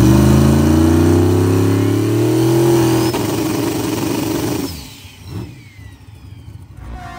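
Drag car's engine under hard throttle, pitch climbing steadily for about three seconds, then dropping off about three seconds in and fading away.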